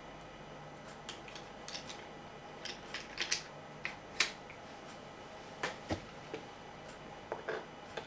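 Irregular small clicks and taps of a plastic radio case and a screwdriver being handled while the radio is screwed back together, about a dozen in all, spread unevenly.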